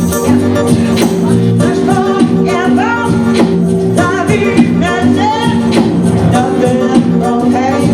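Live band music: a singer over sustained chords with a steady beat, in a Latin American style.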